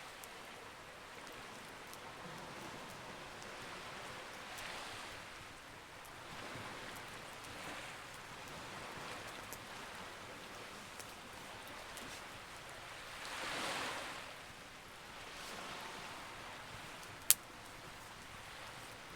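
Campfire crackling with scattered small pops and one sharp loud pop near the end, over a rushing hiss that swells and fades every few seconds.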